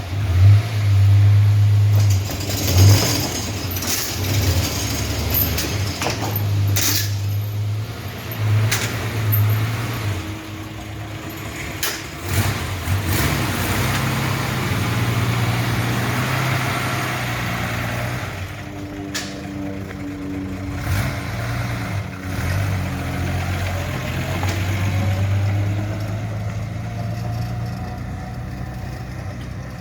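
1940s Hudson engine running through its freshly patched exhaust, its speed rising and falling, with a slow rise in pitch near the end. A few sharp knocks sound in the first seven seconds or so.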